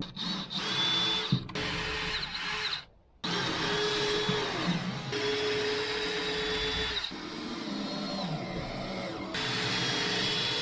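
Power drill running in several stretches of a few seconds each, its motor whine holding a steady pitch, each stretch starting and stopping abruptly.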